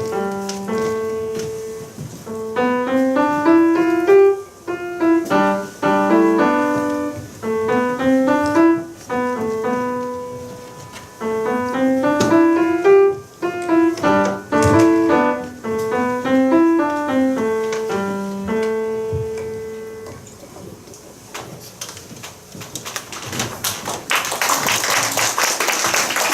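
Solo piano playing a lively melody in short phrases over a bass line. The music ends on a held note and fades, and about three seconds later applause starts near the end.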